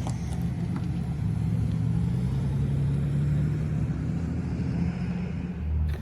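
A vehicle engine running: a steady low hum whose pitch rises slightly for a moment about four seconds in.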